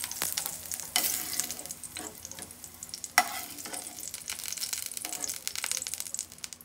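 Carrot and potato pieces sizzling in hot oil in a frying pan, with a metal spoon clicking and scraping against the pan as they are scooped out. The sizzle thins out after the first second or two as the pan empties.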